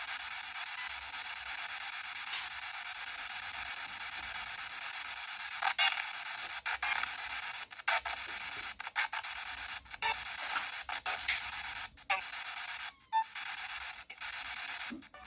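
Spirit box (ghost box) radio scanning through stations: a steady hiss of radio static that, from about halfway in, is chopped by rapid cut-outs and clicks as it jumps channels.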